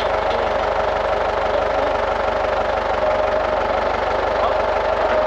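An engine running steadily at an even speed, with a constant whine.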